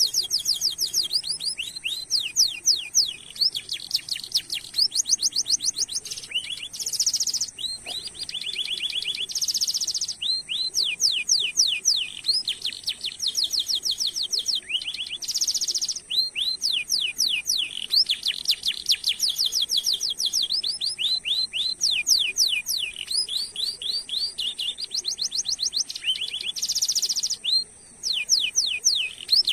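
Domestic canary singing a continuous rolling song: long fast trills of quick, high, downward-sweeping notes, broken several times by short buzzy rattles.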